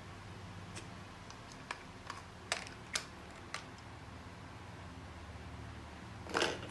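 Scattered light clicks and taps, about six in the first few seconds, then a brief louder clatter near the end, over a faint steady hum.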